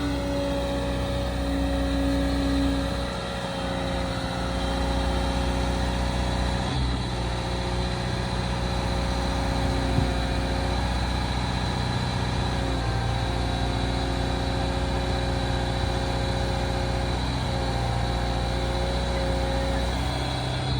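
Liebherr R926 Compact tracked excavator's diesel engine running steadily, with a steady whine over it and small shifts in pitch and level every few seconds. A single short click about halfway through.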